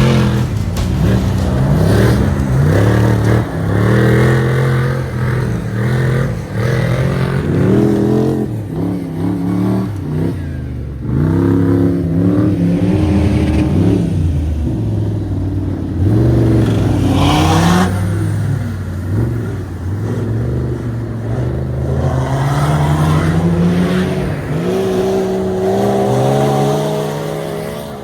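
Off-road race car engines revving hard, pitch climbing and dropping again and again as the cars accelerate and shift gear, sometimes more than one engine at a time.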